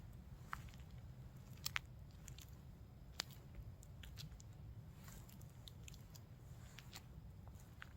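Faint outdoor ambience: a steady low rumble with scattered, irregular small crackles and clicks.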